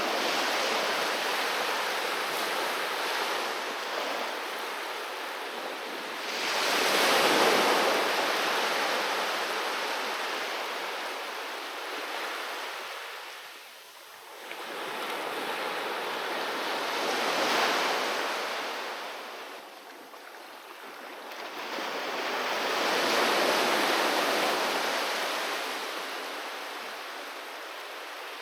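Sea waves breaking on a beach and washing up the shore, rising and falling in slow surges every six to ten seconds; the loudest wave breaks about seven seconds in.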